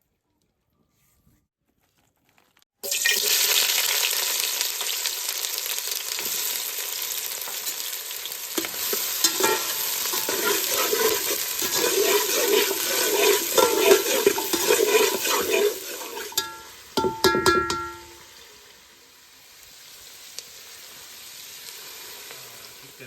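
Food frying in hot oil in a pan, sizzling loudly while a metal spoon scrapes and clicks against it as it is stirred. The sizzle starts suddenly about three seconds in. A few sharp ringing metal clanks come near the end, after which the sizzling carries on more quietly.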